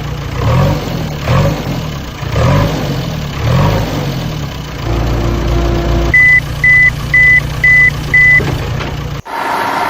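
Heavy vehicle engine running with four quick revs, then settling to a steady drone as a reversing alarm beeps five times, about two beeps a second; the sound cuts off suddenly near the end.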